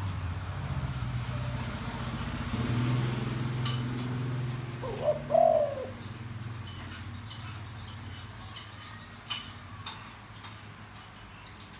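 Spotted dove giving one deep, two-part coo phrase about five seconds in. A low steady hum lies under the first half, and there are a couple of faint clicks.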